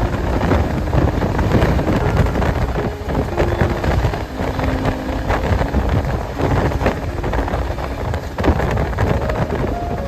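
Passenger train running at speed, a loud steady rumble with frequent knocks and rattles, with wind buffeting the microphone.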